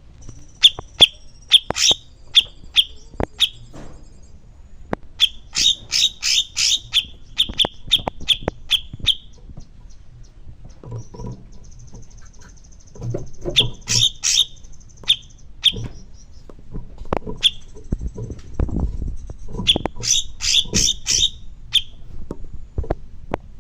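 Songbird singing in repeated runs of quick, sharp chirps, several a second, with a thin, high, steady buzzing trill between the runs.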